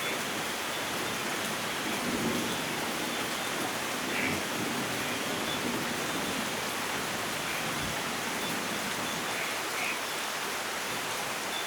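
Steady light rain falling and pattering, with a faint low rumble of distant thunder behind it.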